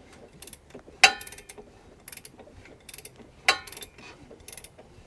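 Hand socket ratchet clicking in light quick ticks as it turns a freshly freed, formerly seized V8 over by hand. There are two sharper metallic clicks, about a second in and past the middle.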